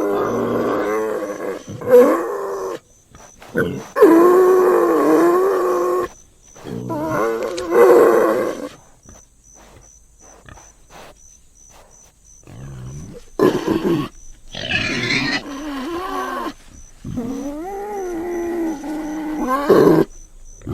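Warthog calling in a series of drawn-out calls that bend up and down in pitch, coming in bouts, with a quieter gap of a few seconds midway.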